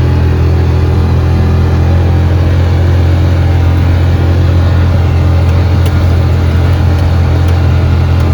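Side-by-side utility vehicle's engine running steadily at an even speed, a loud low drone.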